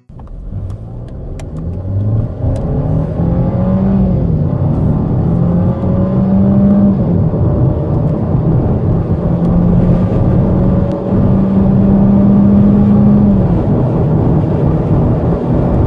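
2013 Mercedes-Benz C180's turbocharged four-cylinder engine accelerating hard from a standstill. Its note rises through each gear and drops back at the upshifts, about four, seven and thirteen seconds in, and grows louder over the first few seconds.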